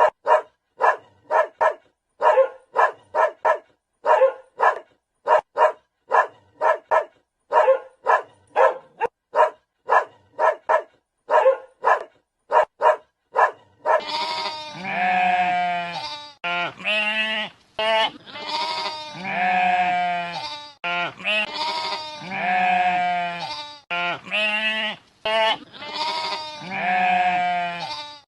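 A dog barking in short, sharp barks, about two a second, for roughly the first half. Then long, wavering bleats, each a second or two, take over.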